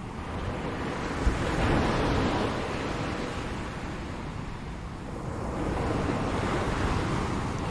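Ocean surf: waves washing in, swelling to a peak about two seconds in, easing off, then building again in a second swell near the end.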